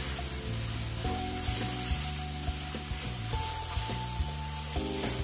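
Grated pumpkin and sugar sizzling in ghee in a steel pan while a wooden spatula stirs them. Background music with held notes and a bass line plays underneath.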